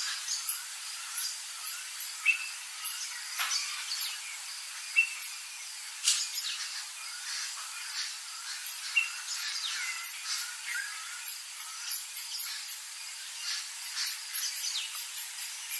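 Wild birds calling, with short gliding calls, over a dense run of quick, very high-pitched chirps, likely from insects.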